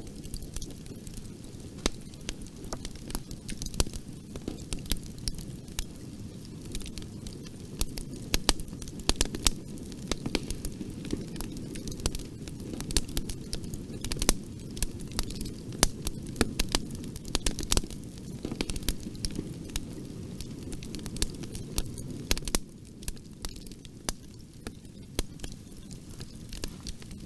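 Wood fire in a fireplace burning with irregular sharp crackles and pops over a low steady rumble of flame.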